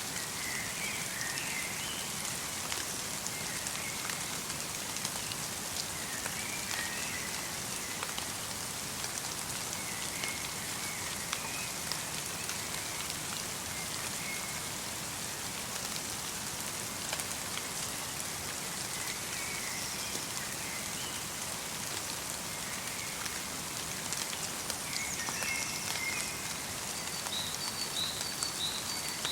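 Light rain mixed with falling snow pattering steadily in a forest, with many small drop ticks. A bird calls in short chirps every few seconds, with a flurry of higher chirps near the end.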